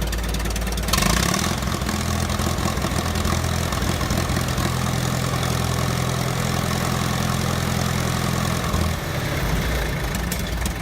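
Vintage tractor engine running steadily, with a louder surge about a second in and the note dropping away near the end.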